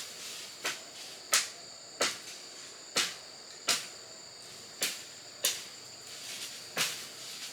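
A hand tool striking wood over and over: eight sharp blows at an uneven pace of about one a second. Insects trill steadily underneath.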